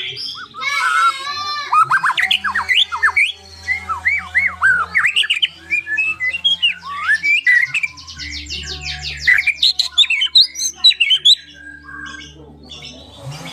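White-rumped shama (murai batu) singing a long, varied song of rising and falling whistled notes, with a fast rattling trill about eight seconds in. A low steady hum runs underneath.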